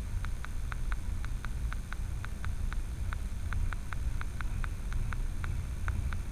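Freight train rolling past with a steady low rumble and a rapid, slightly uneven clicking: the clickety-clack of wheels passing over rail joints.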